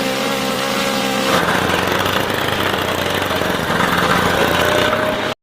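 Miniature model engine running with a steady buzzing note, which turns rougher and busier about a second and a half in, then stops abruptly near the end.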